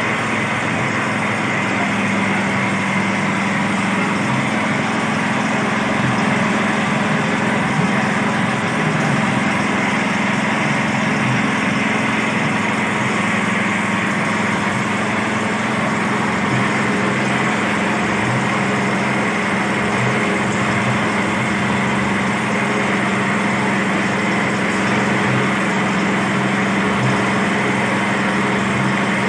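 Small engine running steadily under load, driving a homemade well-drilling rig.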